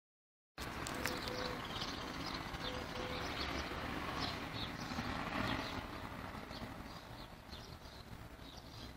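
Outdoor garden ambience: small birds chirping over and over above a low background rumble.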